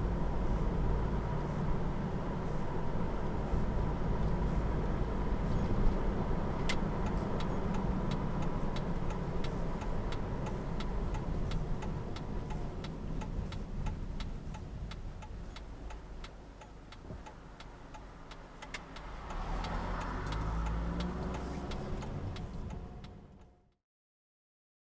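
Car driving: steady engine and road rumble, with a long run of sharp clicks through the middle. It fades out to silence shortly before the end.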